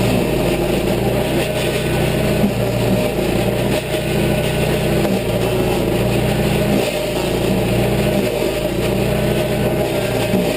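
Toro stump grinder's petrol engine running hard under load as its cutting wheel grinds into wood. The engine note sags briefly every second or two.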